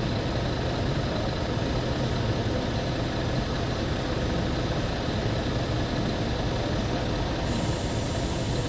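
Scania G tipper truck's diesel engine idling steadily, a constant low hum. A faint high hiss joins near the end.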